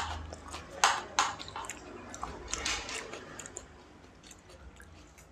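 A person chewing a mouthful of pulao close to the microphone, with wet clicking chews that are densest in the first three seconds and then thin out.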